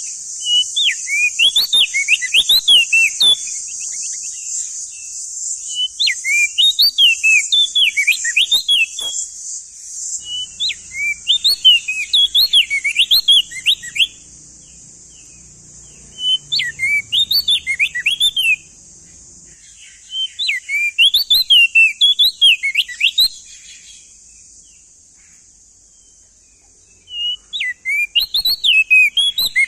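Opior jambul (crested white-eye) singing: six loud phrases of quick, rising-and-falling whistled notes, each lasting two to four seconds with pauses of a few seconds between them. A steady high hiss runs beneath the song and fades after about ten seconds.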